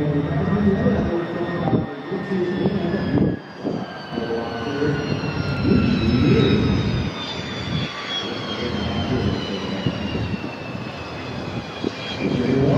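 A Lockheed U-2's single turbofan engine as the jet flies past: a high engine whine that falls slowly in pitch over a rough, uneven engine rumble.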